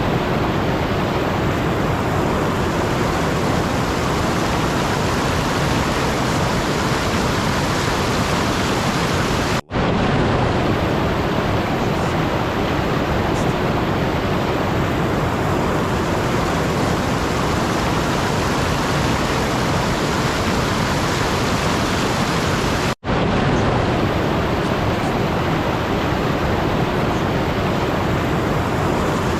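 Steady, even hiss of noise with no tone or rhythm, cutting out for an instant twice, about ten seconds in and about twenty-three seconds in.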